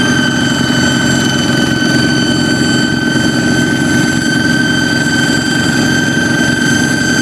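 Kubota hand tractor engine running steadily, with a constant high-pitched whistle over the engine's beat: the 'fighter jet' sound it is built to make.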